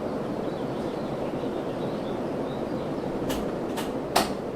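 Westinghouse Industrial Look ceiling fan running at full speed: a steady whoosh of air moved by its blades. Three sharp clicks come near the end.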